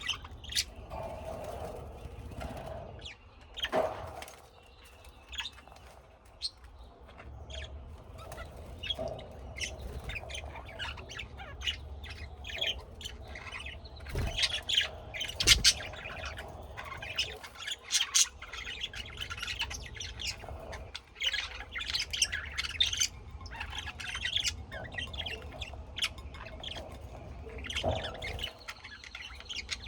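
Many birds chirping and squawking in a dense run of short, sharp calls, with two loud thumps about fourteen and fifteen and a half seconds in.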